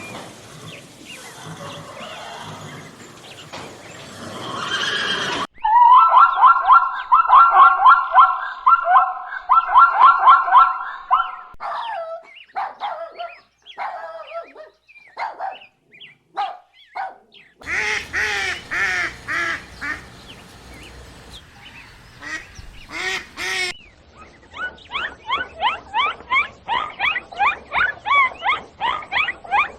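A sequence of different animal calls joined by abrupt cuts. A noisy stretch gives way to a fast run of calls, then spaced single calls, then a stretch of deeper calls, and finally an evenly repeated call series.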